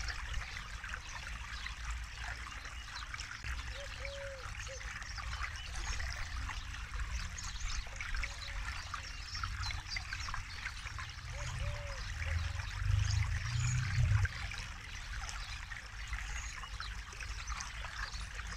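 Forest river flowing over stones in a steady babble, with a low rumble underneath that swells for a few seconds past the middle.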